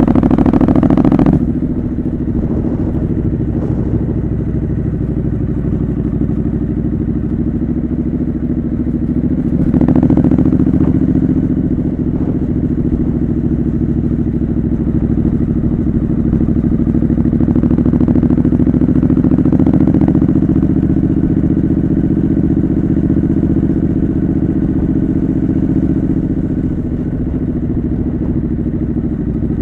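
Triumph Scrambler 900's parallel-twin engine running through a homemade custom exhaust while the bike is ridden. It is loudest for the first second or so, then eases off to a steady cruise, with slight swells in the note about ten and twenty seconds in. Wind buffets the microphone.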